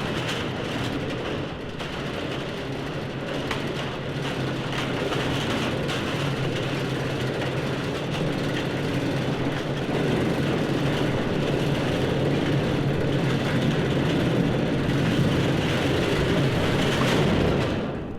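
A steady mechanical rumble with a low hum, growing a little louder before it cuts off abruptly at the end.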